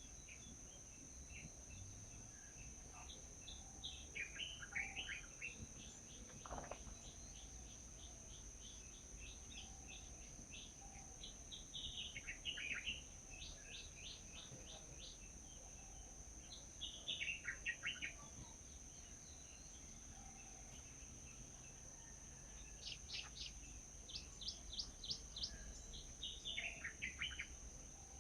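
Wild birds singing: about five bursts of quick chirps falling in pitch, each a second or two long, with the last ones coming close together near the end. Under them runs a constant high-pitched hum.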